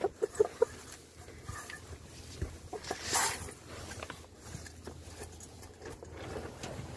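Chicken giving about four quick, short clucks in the first second. About three seconds in comes a brief rush of noise.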